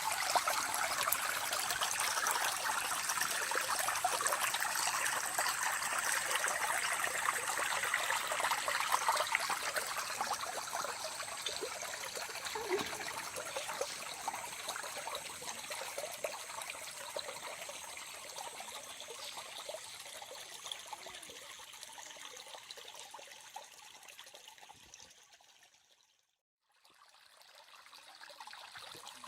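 Small forest stream (riacho) trickling and babbling steadily. It gradually fades in the second half, cuts out almost completely for about a second near the end, then comes back.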